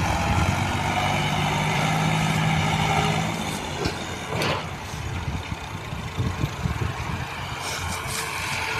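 Tractor diesel engine running hard under load, holding a steady note for about three and a half seconds. The note then drops and the engine runs on unevenly, with a sharp crack about a second later.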